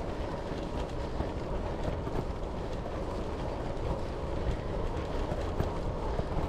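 Road bike rolling along a rough country lane: a steady rumble and rattle from the tyres and frame, with wind on the action-camera microphone.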